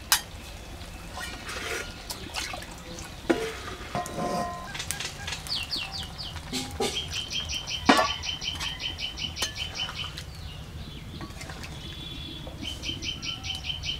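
A bird chirping in quick runs of short high notes, several a second, while a metal spoon and mug clink and knock against a metal wok as water is poured in and stirred. The loudest sound is one sharp knock about eight seconds in.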